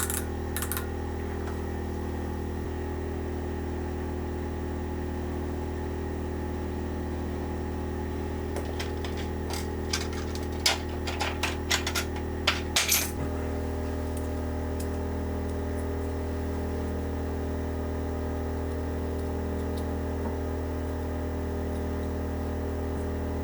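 Light metallic clinks and taps from thin metal shims being handled while checking bearing clearance, clustered between about 8 and 13 seconds in, over a steady mechanical hum.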